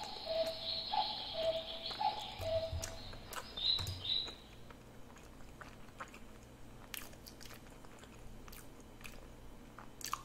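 Faint chewing on a mouthful of steamed dumpling, heard as scattered soft clicks. Over the first few seconds a louder falling two-note tone repeats about once a second, with high chirps around it, then stops.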